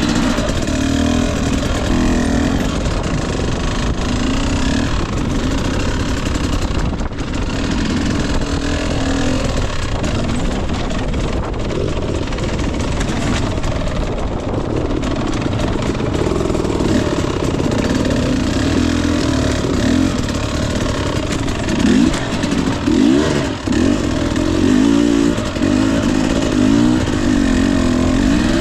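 Husqvarna TE 250i fuel-injected 250 cc two-stroke dirt bike engine running under load on a rough trail, its pitch rising and falling with the throttle. From about two-thirds of the way in the revs come in quick, choppy blips.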